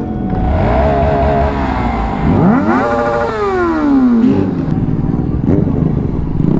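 Motorcycle engine running, then revving: its pitch climbs sharply a little over two seconds in and falls away over the next second and a half.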